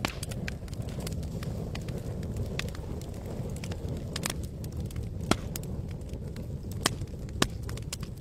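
Campfire crackling, with frequent sharp pops and snaps over a steady low rush; three louder pops fall in the second half.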